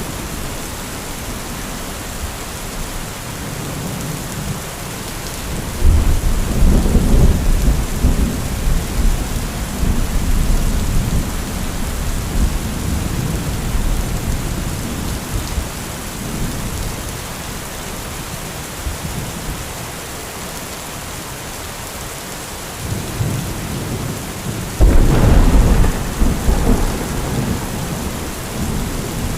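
Steady heavy rainfall with two rolls of thunder. The first starts suddenly about six seconds in and rumbles on for several seconds. The second, loudest, cracks in about twenty-five seconds in and rumbles to the end.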